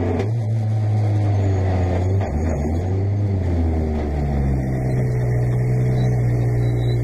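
Peugeot 208 T16 R5 rally car's turbocharged 1.6-litre four-cylinder engine running at low revs, heard from inside the cabin. The revs drop a little over two seconds in, then the engine holds a low, steady note.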